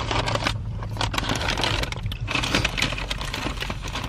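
Dense, irregular crackling and rustling from fast food being handled and bitten into, over a steady low hum.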